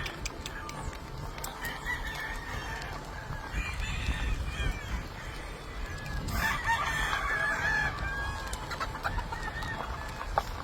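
Gamefowl roosters crowing and chickens clucking, with the longest crow about six seconds in.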